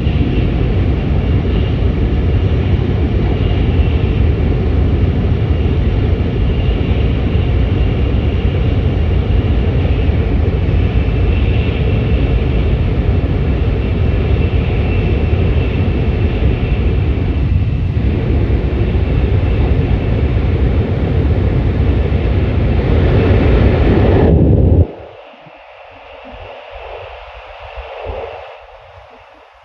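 Nishi-Kyushu Shinkansen N700S train running at speed, heard from inside the passenger car as a loud, steady rumble with a hiss of air. About 25 seconds in, the rumble drops off suddenly to a much quieter sound.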